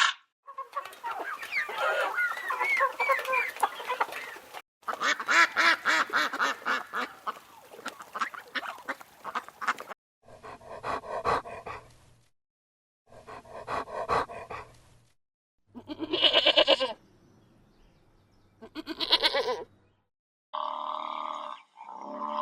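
Domestic fowl calling in a string of separate short clips, each cut off abruptly. First come many short, overlapping calls from a flock, then several brief bursts of calls, and near the end longer, steadier calls.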